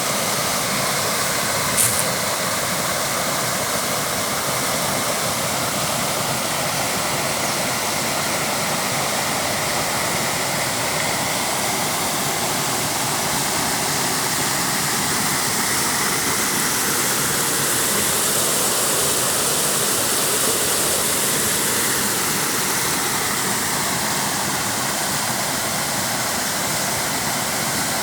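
Mountain waterfall rushing steadily, with a brief click about two seconds in.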